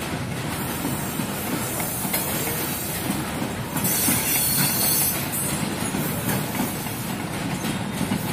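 Freight train's hopper wagons and trailing brake van rolling past, a steady rumble of wheels on the rails. About four seconds in, a high-pitched rushing noise rises over it for about a second and a half.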